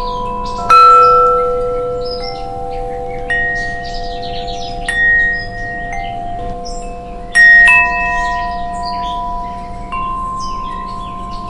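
Wind chimes ringing, struck at irregular intervals by the wind, each tone ringing on and overlapping the next. The loudest strikes come about a second in and again a little past the middle.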